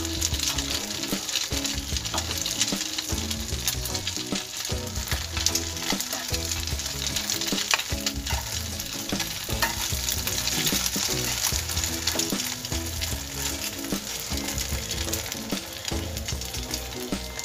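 Egg-dipped slices of tikoy (sticky rice cake) sizzling steadily in hot oil in a shallow frying pan, with a constant spattering crackle.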